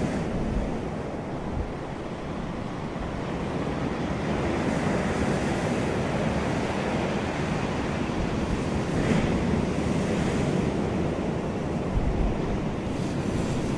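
Steady outdoor rushing noise, as of wind or moving water, swelling and easing slowly, with a couple of deep low thumps near the start and near the end.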